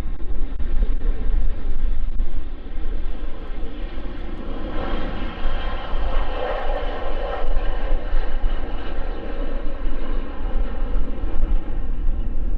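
An aircraft's engines going by, swelling to a peak about halfway through and fading, over heavy wind buffeting the microphone.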